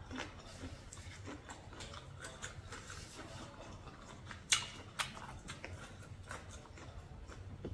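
A person eating and chewing, with many small wet mouth clicks and crunches and two sharper clicks about halfway through.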